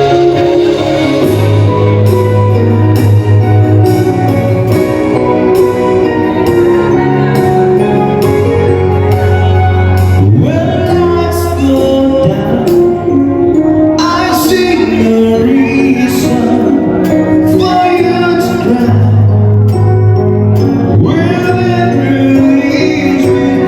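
Live band playing a rock song on keyboard, bass and drums, with a lead vocal coming in about halfway through.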